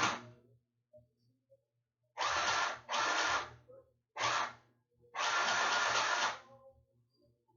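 Small electric sewing machine running in five short bursts as it stitches fabric, the longest about a second, the motor starting and stopping with each burst.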